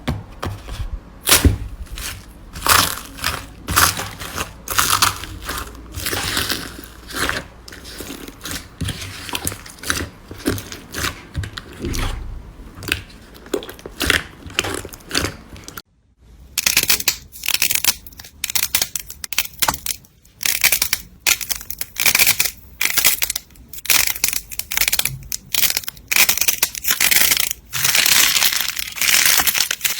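Hands squeezing and pressing crunchy slime, giving a dense run of crackling, crunching clicks and pops. There is a brief silence just before halfway, then more crunching.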